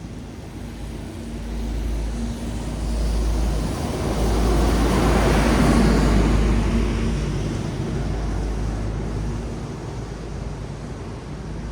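A vehicle passing on a wet road: the hiss of tyres on wet asphalt swells to a peak about halfway through and then fades, over a steady low rumble of traffic.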